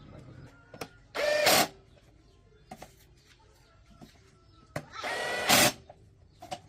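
A small electric power tool's motor whirring in two short bursts, one about a second in and a longer one near five seconds, with light clicks and taps between.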